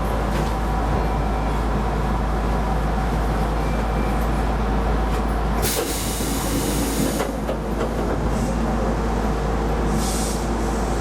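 Keisei Line electric train running, heard from inside the car: a steady rumble with faint steady tones. A loud hiss lasts about a second and a half past the middle, and a shorter one comes near the end.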